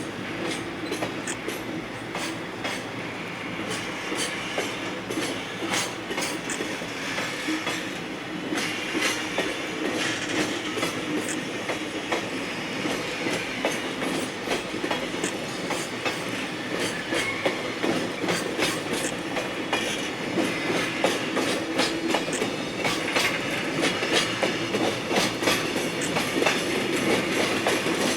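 Freight train of Koki container flat wagons rolling past, wheels clicking steadily over rail joints; it grows a little louder near the end.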